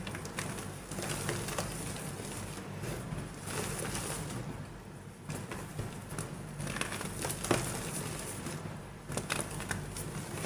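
Soft gym chalk crumbling and crushing: irregular small crackles and cracks, with a sharper crack about seven and a half seconds in.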